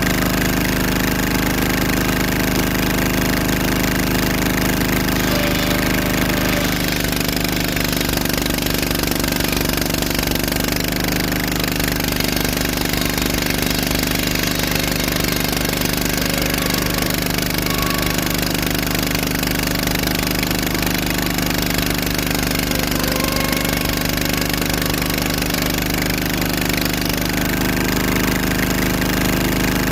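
An engine running steadily without a break; its tone shifts slightly about seven seconds in and again shortly before the end.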